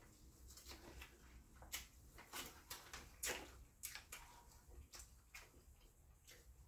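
Wet chewing and lip-smacking while eating seafood boil by hand: a run of sharp, irregular clicks and smacks, roughly two a second, the loudest a little past three seconds in.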